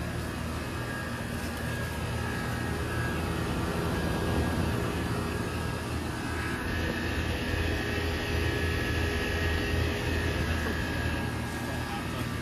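Outdoor heat pump condensing unit running in cooling mode: a steady fan whoosh over a low compressor hum.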